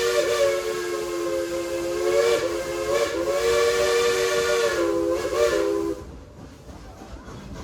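Chime steam whistle of Baldwin steam locomotive No. 70 "Cinderella" blowing a long multi-note chord, the pitch wavering briefly a few times as it is worked, then cutting off about six seconds in. The quieter running sound of the train continues afterward.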